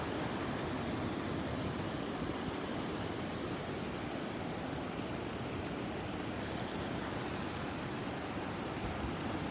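A steady, even rush of ocean surf and wind, with no distinct events.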